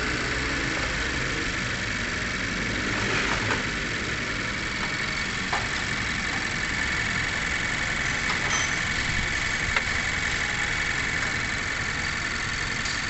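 Mazda 3's engine idling steadily, run after an automatic transmission filter change so the fresh ATF circulates through the transmission.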